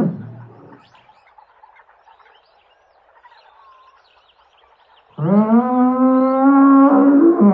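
A quieter stretch of outdoor background with faint chirps, then, about five seconds in, a large animal's loud, long call on one steady pitch that holds for about three seconds.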